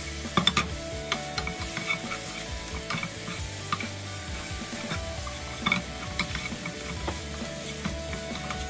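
Food sizzling as it fries in a pan and is stirred, with a utensil clicking and scraping against the pan at irregular moments a few times a second.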